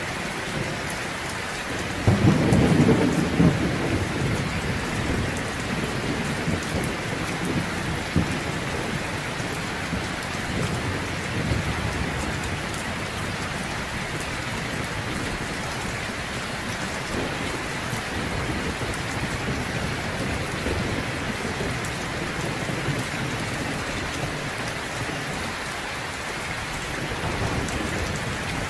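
Heavy rain falling steadily, with a loud low rumble of thunder about two seconds in that fades over a couple of seconds.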